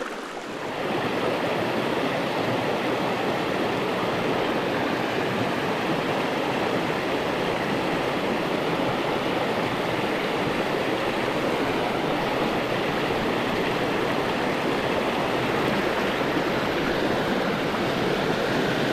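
Shallow stream riffle: water running steadily over stones, close to the microphone. It grows louder about a second in, then holds even.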